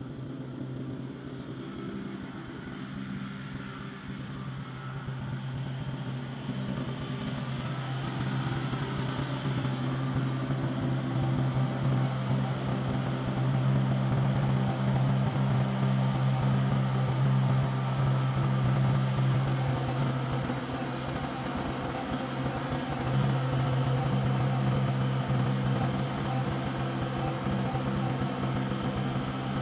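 Kubota compact tractor's diesel engine running steadily, getting louder over the first dozen seconds, with a brief dip in level about two-thirds of the way through.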